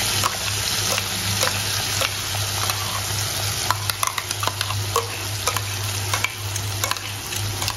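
Wet ground masala paste sizzling in hot oil in a frying pan, with a steady hiss. Irregular clicks and scrapes come from a metal spoon working the paste off into the pan.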